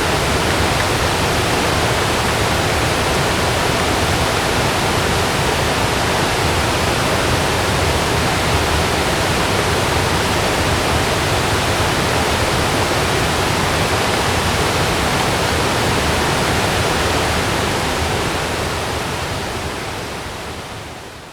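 Steady heavy rain falling on a camping tent, a dense even hiss with no thunder in it, fading out over the last few seconds.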